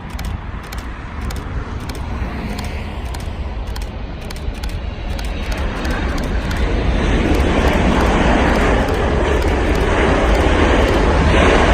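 Boeing 777-300ER's GE90 jet engines on landing approach: a steady rumble and rush that grows louder through the second half.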